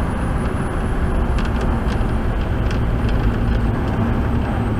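Steady engine and road noise heard inside a vehicle's cab while driving, with a few faint ticks about a second and a half to three seconds in.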